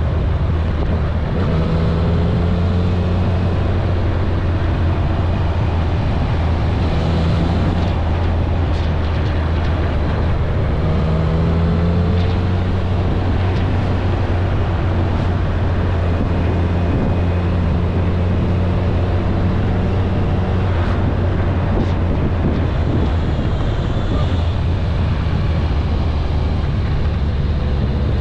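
Kawasaki ZRX1100's inline-four engine running at a steady cruise, with wind rushing over the helmet-mounted microphone.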